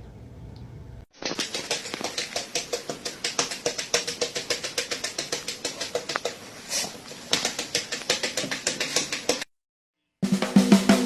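A rapid, even run of sharp clicks or taps, about five or six a second, starting about a second in and cutting off near the end; a burst of music begins just after.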